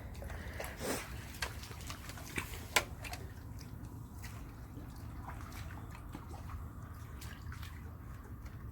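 Seawater lapping and dripping against a dock's wall and stairs: scattered drips and small splashes, the sharpest about three seconds in, over a steady low rumble.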